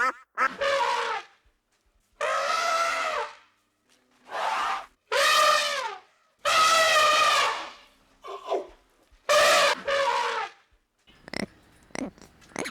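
An animal giving a series of loud, drawn-out calls, each about a second long and some wavering, with short gaps between them.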